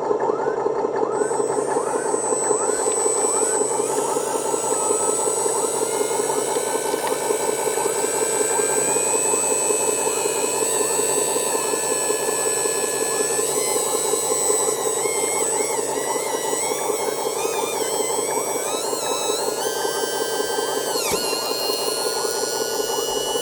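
Simulated diesel truck engine sound from the RC truck's sound module, running steadily through a small speaker. Over it is a high electric whine from the drive motor, which glides up and down in pitch from about the middle on.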